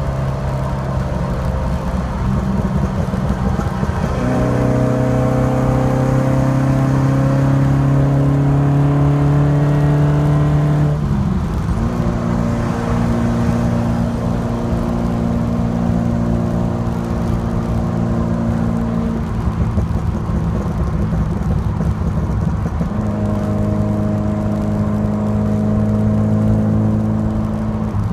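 Alfa Romeo Alfasud Sprint QV's 1.5-litre flat-four boxer engine with a stainless-steel exhaust, pulling under way: its note climbs slowly and drops sharply at a gear change about eleven seconds in, then holds steady revs. The steady note breaks up for a few seconds past the middle and settles again near the end.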